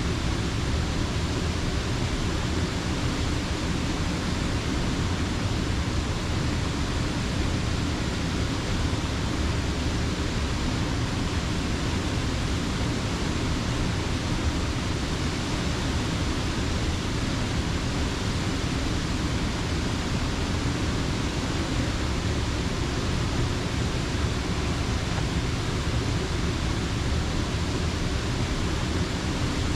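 Rushing water of a rocky creek, a steady, even hiss with a deep rumble underneath and no change throughout.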